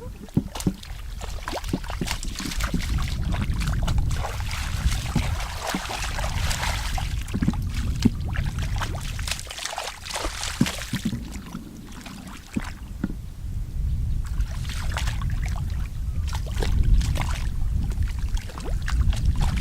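Water sloshing and splashing in uneven bursts with many small clicks, over a low rumble.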